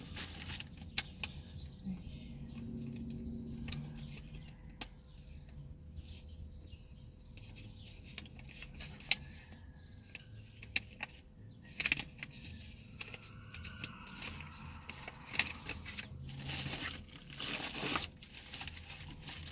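Paper and plastic packaging crinkling and tearing with scattered sharp clicks as a mail package of trading cards is handled and unwrapped; the rustling is busiest late on.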